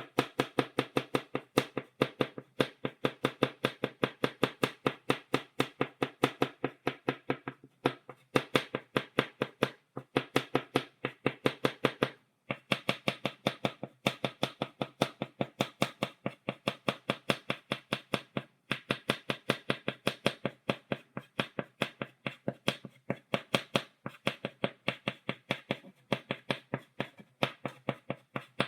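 Chalk tapped rapidly against a blackboard, dotting it: a steady run of sharp taps, several a second, with a few brief breaks.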